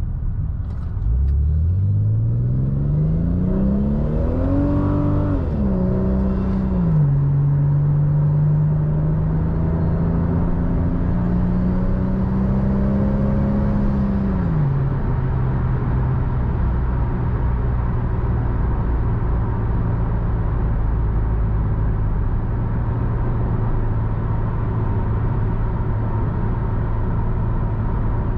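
Toyota Supra MK4's 2JZ straight-six engine pulling hard through a gear, its note climbing for about four seconds, then stepping down twice as it shifts up. It climbs gently once more, drops again about halfway and holds a steady cruising note over constant road and tyre rumble.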